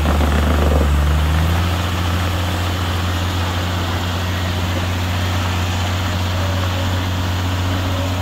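Off-road vehicle engine running steadily with a low drone.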